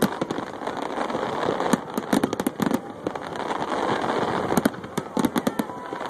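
Fireworks display: many sharp bangs from shells bursting, bunched in quick volleys about two seconds in and again near five seconds, over a steady background din.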